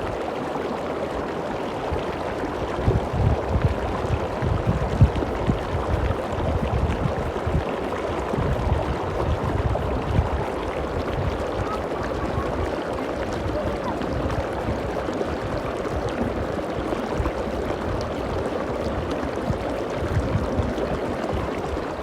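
Water cascading down a stone-lined spillway from one lagoon into the next: a steady rush of falling water, with low, irregular rumbles beneath it.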